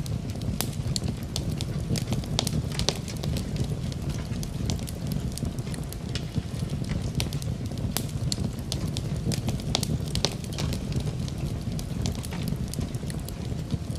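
Wood fire crackling in a fireplace: frequent irregular sharp pops and snaps over a steady low rushing noise.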